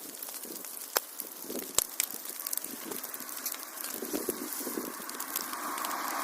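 Fireplace fire crackling, with irregular sharp pops over a steady hiss of flame; a rushing hiss swells near the end.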